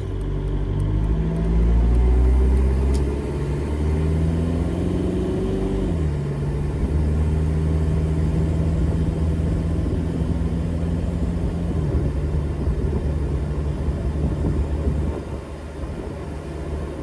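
Jeep TJ Wrangler's swapped-in 1.9 TDI four-cylinder diesel pulling under way. Its pitch climbs, drops sharply about six seconds in as the AW4 automatic shifts up, holds steady, then drops again near twelve seconds.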